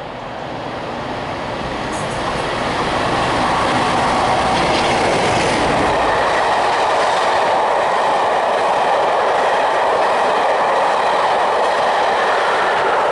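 Diesel-hauled passenger train running through the station without stopping. The noise builds over the first few seconds as the locomotive approaches and passes. Then the coaches roll by with a steady rumble of wheels on rail.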